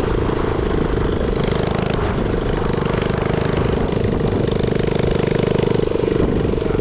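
Minibike engine running steadily.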